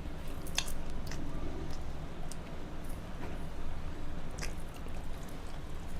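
Eating sounds: someone chewing mouthfuls of rice with mashed bhorta and curry, with soft wet squishes and a few short sharp clicks, over a low steady hum.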